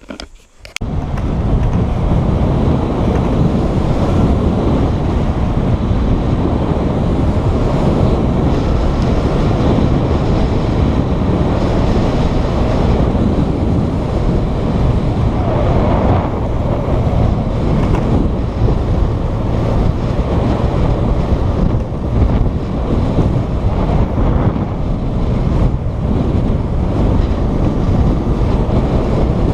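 Wind rushing over the microphone of a motorcycle on the move: a loud, steady, low rush that cuts in suddenly about a second in.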